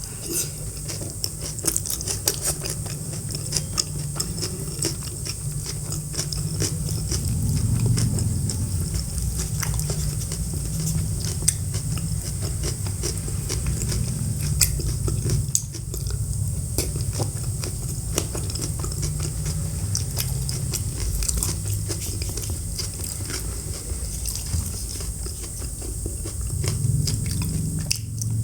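Close-miked chewing and biting of food, with many small sharp mouth clicks throughout.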